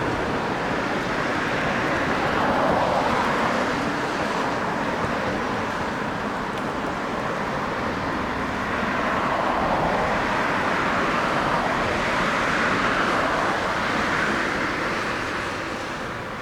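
Jet aircraft engine noise, a steady rush that swells and eases every few seconds.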